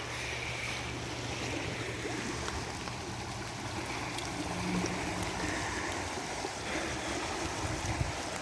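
Rain-swollen backyard creek rushing steadily beneath a log footbridge, running high after a full day of rain.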